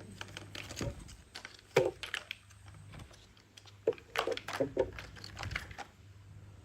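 Toy pieces being handled and clacking together in a series of irregular short clicks and knocks, busiest around two seconds in and again from about four to five and a half seconds.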